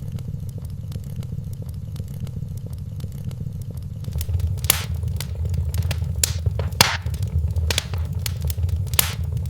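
Wood fire in a fireplace crackling over a steady low rumble, with a few sharp pops from about halfway through.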